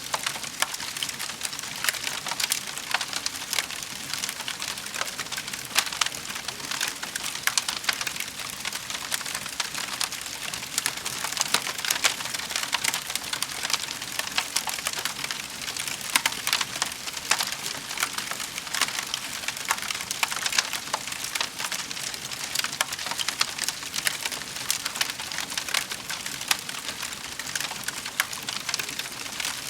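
Wood fire burning in a fireplace: steady dense crackling and popping with a hiss, no pauses.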